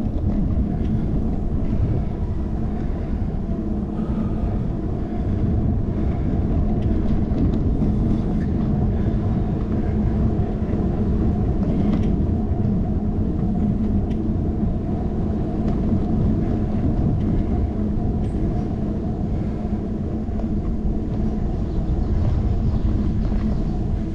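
Steady low rumble of riding noise picked up by a handlebar-mounted GoPro: wind buffeting the microphone and road vibration, with a few faint ticks.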